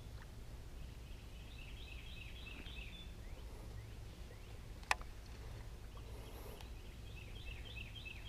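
Faint bird song, a quick run of high chirps heard twice, about two seconds in and again near the end, over a low steady hum, with one sharp click about five seconds in.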